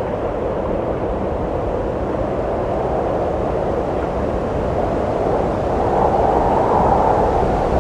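Wind blowing steadily with a low, hollow rush, swelling into a louder, slightly higher gust about six seconds in.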